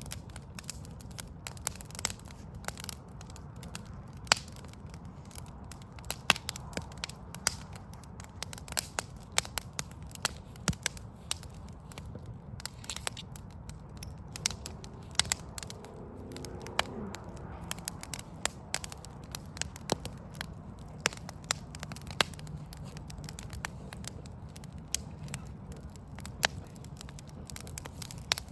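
Wood fire crackling: burning logs giving off frequent, irregular sharp snaps and pops over a low, steady rumble.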